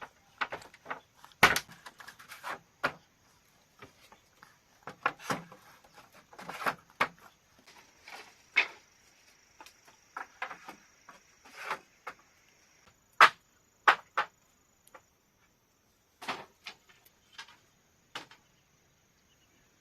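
Irregular wooden knocks and clatter of bamboo being worked, a few of them sharp and loud, with a steady high insect drone behind them.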